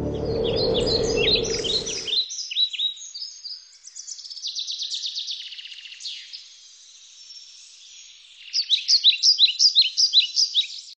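Birds chirping in many short, falling chirps, with a trilling stretch around the middle and a run of louder, quicker chirps over the last two and a half seconds. A music track fades out over the first two seconds.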